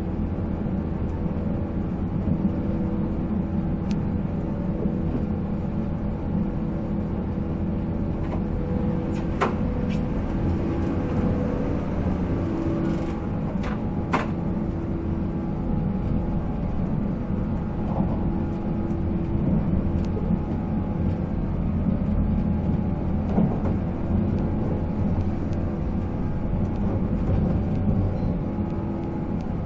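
485-series electric train running at steady speed, heard inside the passenger car: the MT54 traction motors hum at a steady pitch over the rumble of wheels on rail. A few sharp, short clicks come about a third of the way in and again a little later.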